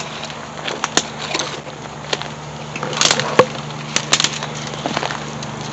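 Footsteps crunching and snapping through brush on the ground, in irregular steps with a louder cluster about three seconds in, over a steady low hum.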